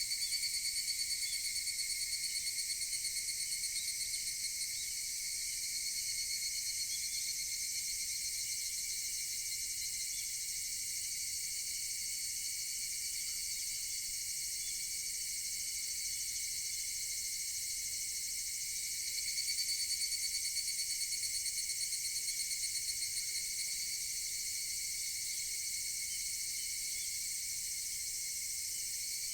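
Higurashi (evening cicadas) calling in a steady chorus. A nearer cicada's rapid pulsing call swells out at the start and again about twenty seconds in, each time lasting about four to five seconds.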